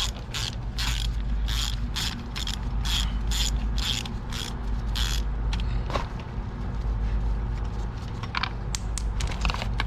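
Ratchet wrench clicking in an even run of about three clicks a second as a Torx bolt is worked loose, then a few scattered clicks near the end, over a steady low hum.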